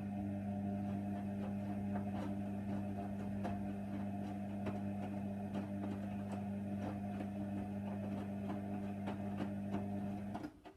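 Hoover Nextra HNWL 7146 washer-dryer running a steady electric motor hum with scattered light clicks and rattles, which cuts off about ten and a half seconds in.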